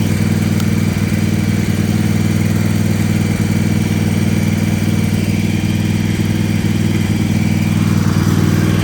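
Husqvarna mower's small engine idling steadily, with no change in speed.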